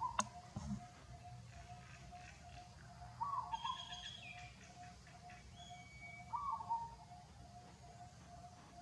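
Short animal calls, each about half a second with a falling tail, repeating about every three seconds over a faint, steady, rapidly pulsing tone. A few higher chirps come in the middle, and a sharp click sounds just after the start.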